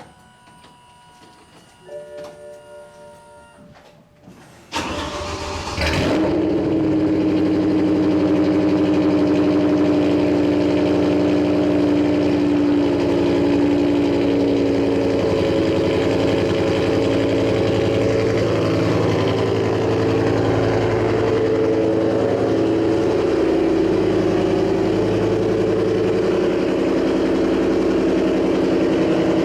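Electronic chimes, then about five seconds in the starter cranks briefly and a BMW M6 engine catches with a loud rev flare before settling into a steady fast cold-start idle. The exhaust is straight-piped, with headers and no catalytic converters or mufflers, so the idle is loud and raw.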